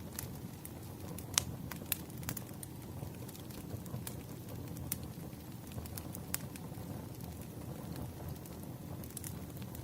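Campfire crackling: a steady low rumble of burning with irregular sharp pops of wood, the loudest about a second and a half in.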